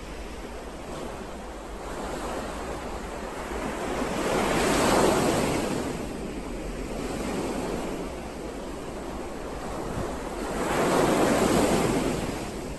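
Ocean waves washing onto a shore, with two larger waves breaking and surging about five seconds in and again near the end over a steady background of surf.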